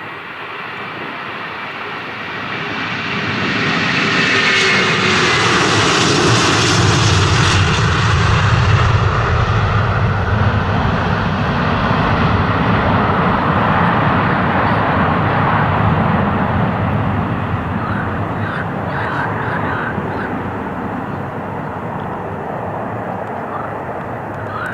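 Airliner passing close by: engine noise swells over a couple of seconds, with a falling whine as it goes past. It stays loud for about ten seconds and then slowly fades away.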